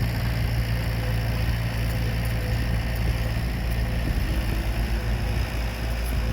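Heavy diesel construction machinery engine running steadily at a low, even drone.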